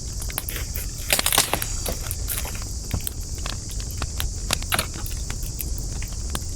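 Wood fire crackling and popping, with irregular sharp snaps throughout and a dense burst of crackles about a second in, over a steady high hiss and low rumble.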